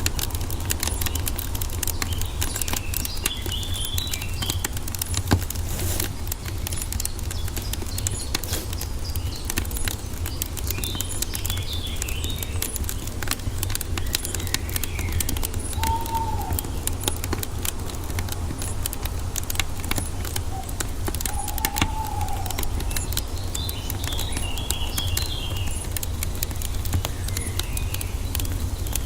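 Wood fire crackling and popping continuously over a low steady rumble, with birds chirping a few times and two short lower calls from a bird partway through.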